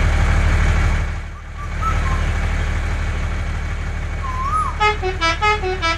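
A tractor-like engine chugging steadily with a quick regular pulse, dipping briefly about a second in before picking up again. Near the end, a string of short beeping horn notes plays a tune over it.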